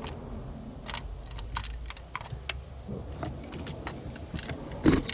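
Scattered light metallic clicks and clinks of hand tools and spark plugs being handled during a plug swap, with one louder knock near the end.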